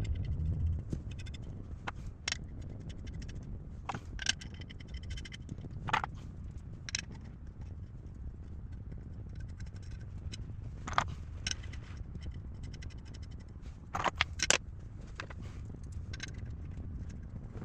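Scattered sharp clicks and clinks of metal parts and hand tools being handled during a hydraulic box rebuild, irregular and a few seconds apart, over a low steady background hum.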